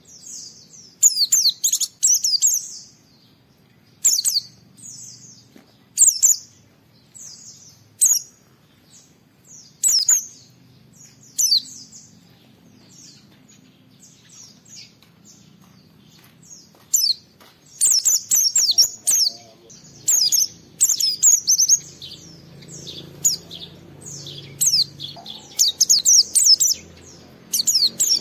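White-eye (pleci) singing: sharp, high chirps come a second or two apart at first. After a quieter stretch in the middle, they run into a fast, dense twittering song.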